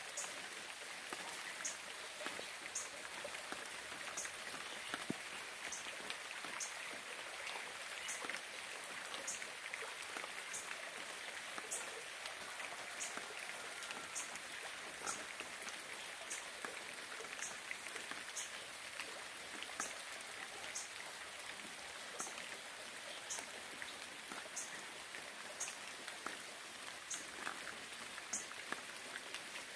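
Steady rain falling, with many separate drops striking close by. A short high chirp from a small animal repeats about once a second over the rain.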